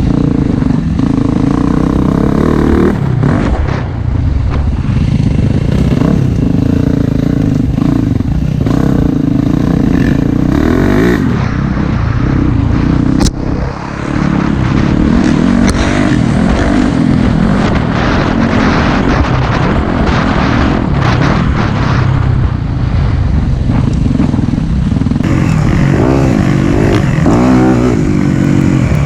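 Four-stroke dirt bike engine running under way, its pitch rising and falling as the throttle is worked, with a brief drop in level about 13 seconds in.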